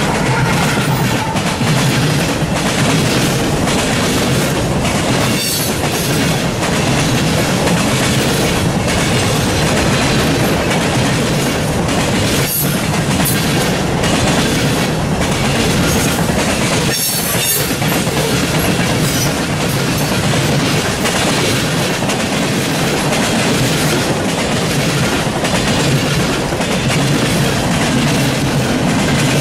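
Norfolk Southern freight train rolling past close by: a loud, steady rumble of freight cars with wheels clacking over the rail joints.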